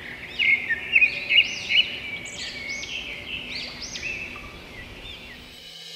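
Birds chirping: a quick, busy run of short arching whistled notes, loudest in the first two seconds, over a faint steady background hiss.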